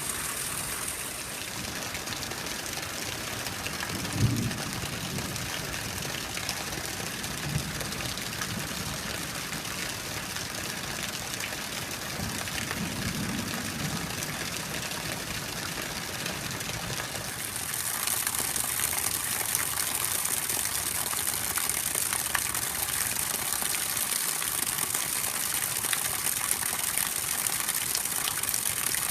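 Steady heavy rain at night with water pouring and splashing, with a few brief low rumbles in the first half. About two-thirds of the way through it turns louder and hissier.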